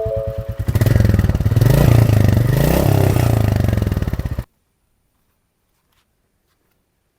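Royal Enfield Classic 350's single-cylinder engine idling with an even thump, then revved up and down from about a second in, cutting off suddenly after about four and a half seconds.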